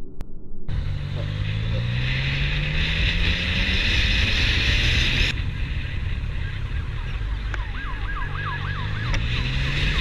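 An engine running and slowly rising in pitch over a heavy rush of wind and road noise. Near the end a fast warbling siren sounds briefly.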